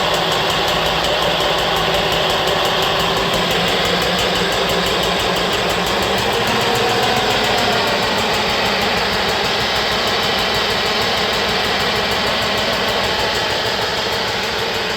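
The Trikke Pon-E 48V's 350-watt geared front hub motor running steadily, with a slight waver in pitch around the middle.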